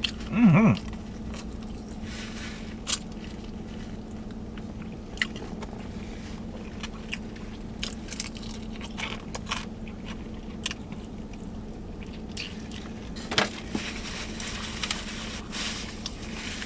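Close-up chewing and biting of fried chicken: scattered crunches and wet mouth clicks, over a steady low hum.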